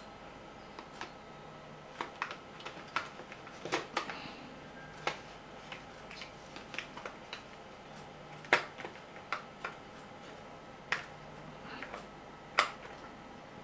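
Small hard plastic parts of a portable radio's casing being handled and pressed into place: irregular sharp clicks and taps, a few of them louder.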